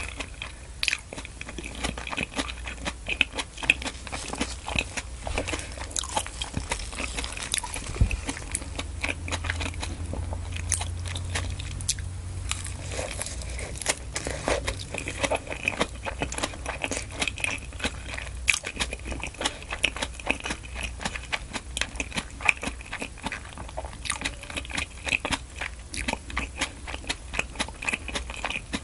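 Close-miked eating: salmon and fresh salad greens chewed and bitten, with many wet mouth clicks and small crunches coming irregularly.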